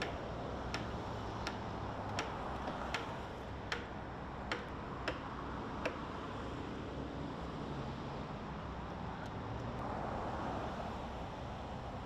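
Steady outdoor background rumble with a run of about eight sharp, evenly spaced ticks, roughly one every three-quarters of a second, that stop about halfway through.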